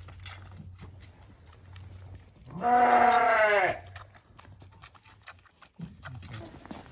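A sheep bleats once, a loud call of about a second, midway through.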